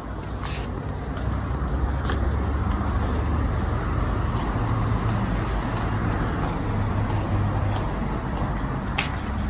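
Steady low rumble of road traffic or a running vehicle, growing louder about a second in. A sharp click and a thin high tone come in just before the end.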